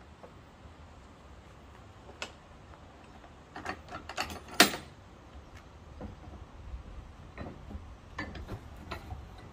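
Scattered knocks and clicks of hand work with wood and tools, with the loudest knock about halfway through and lighter taps after it; the lathe is not running.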